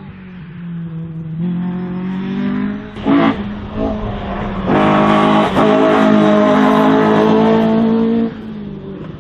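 Race car engine driven hard on a slalom run: it climbs in stages, gives a short sharp crack about three seconds in, then runs loudest and steady for about three and a half seconds before easing off near the end.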